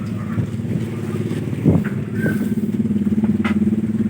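A small engine running steadily with a fast, even pulse. A sharp knock sounds about halfway through, and a lighter one near the end.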